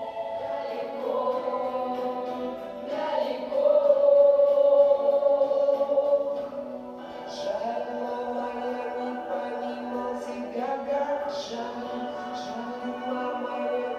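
A choir singing a slow song with long held notes, swelling loudest a few seconds in.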